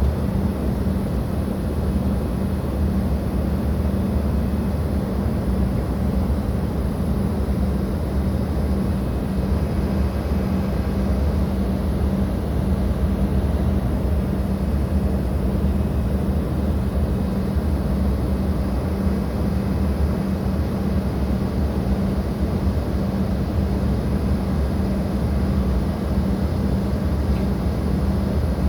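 Steady jet airliner noise: an even rushing sound with a constant low hum that does not rise or fall.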